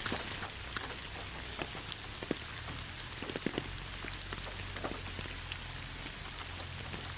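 Steady rain with individual drops ticking sharply on a surface, over a constant low rumble.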